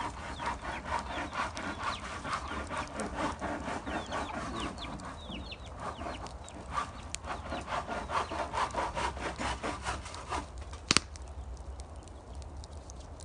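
Chickens clucking close by over a fast, even rasping rhythm, with one sharp click near the end.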